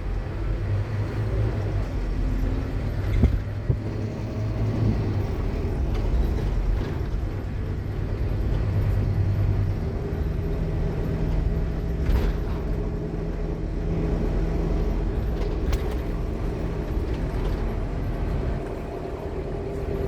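Scania K230UB Omnilink bus under way, heard on board: the engine drones and the ZF Ecomat automatic gearbox whines loudly. About halfway through, the low engine note changes and a steady higher whine comes in.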